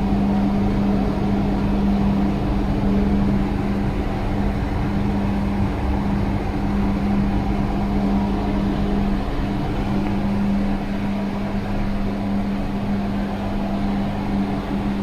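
A machine running steadily: a continuous hum with one strong low tone over a mechanical noise.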